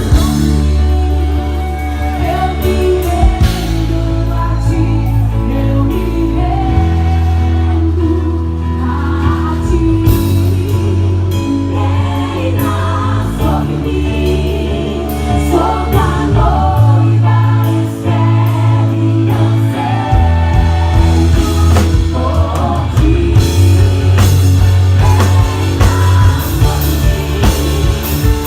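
Live gospel band music with singing, the bass notes changing every few seconds under the voices.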